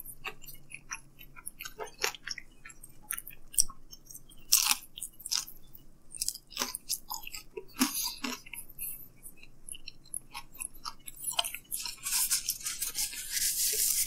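A man chewing a mouthful of oven-reheated thin-crust pizza close to the microphone: irregular crunches and wet mouth clicks, with a denser crackly, hissy stretch near the end.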